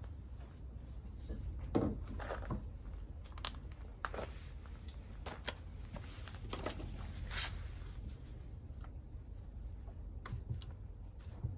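Scattered clicks, knocks and brief scrapes of hand tools and small engine parts being handled while a scooter engine is stripped, over a steady low hum.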